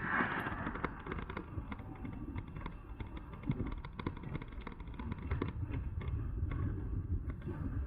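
Wind buffeting the microphone and rumble from an e-bike riding at speed, with frequent small clicks and rattles from the bike as it runs over the rough surface.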